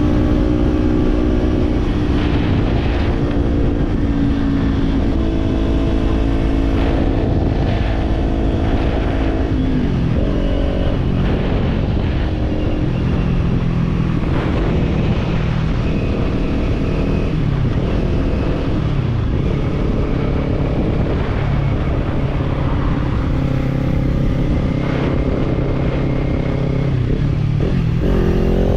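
Kawasaki parallel-twin motorcycle engine with a slip-on exhaust, heard riding along: it holds steady revs, drops in pitch about ten seconds in as the bike slows or shifts, runs at low revs for a long stretch, then revs up again near the end, over the rush of the ride.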